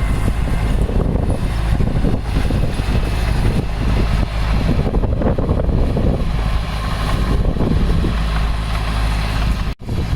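Diesel engine of heavy earthmoving equipment running, a loud, steady, deep rumble. It cuts out for an instant near the end.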